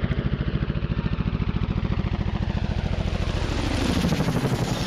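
Helicopter rotor blades beating in a rapid, even pulse, swelling a little louder about four seconds in.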